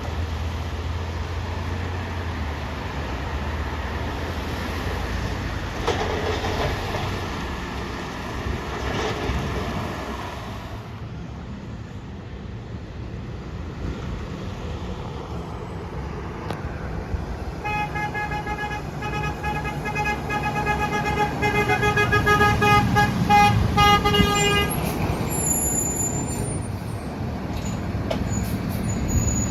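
Passing truck traffic with engine rumble, and about two-thirds of the way in a truck's multi-tone air horn sounding for about seven seconds as a truck goes by.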